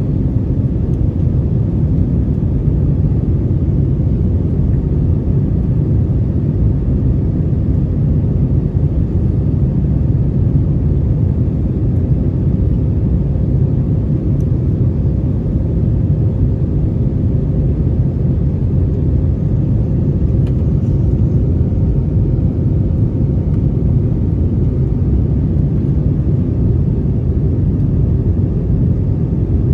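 Steady low rumble inside the cabin of an Airbus A321 airliner in flight: engine and airflow noise, unchanging throughout.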